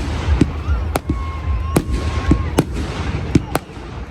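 Fireworks going off: a rapid, irregular series of sharp bangs and cracks, about two a second, with a held whistle-like tone lasting about a second and a half in the middle.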